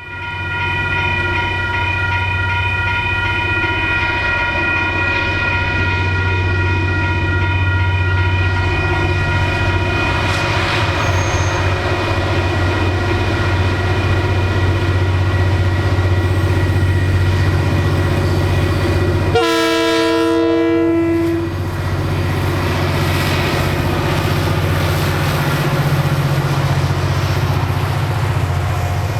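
Diesel freight locomotive of a passing freight train running under power with a steady low engine drone, and a single horn blast of about two seconds some two-thirds of the way through.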